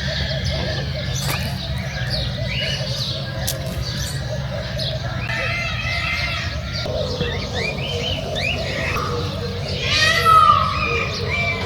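A mixed chorus of many captive birds chirping and calling over one another, with a louder, falling call about ten seconds in.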